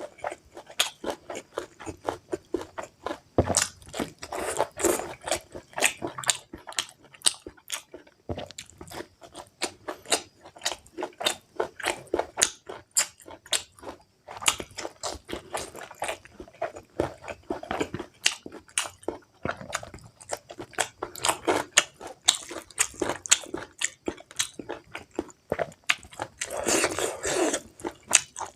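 Close-up chewing and biting of pork meat in curry: wet smacking and crunching mouth sounds, a rapid irregular stream of clicks and smacks.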